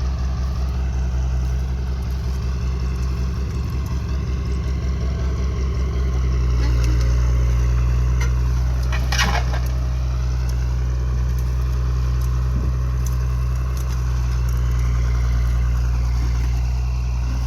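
Tractor engine running steadily with a deep, even hum, growing louder about six seconds in. A short sharp noise cuts through about nine seconds in.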